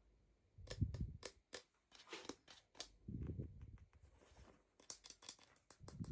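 Toy packaging being handled and opened by hand: a run of sharp clicks and crinkling crackles, with a few dull thumps about a second in, around three seconds in and near the end.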